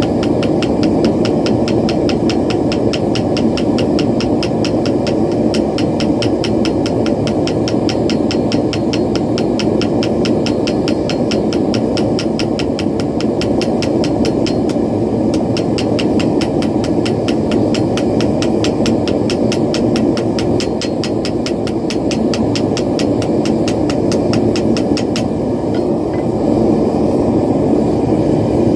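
Propane forge burner running with a steady roar. A fast, even ticking of about four or five a second rides on top of it and stops near the end.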